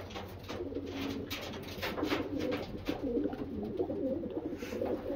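Racing homer pigeons cooing: a male's low, wavering, rolling coos run on without a break.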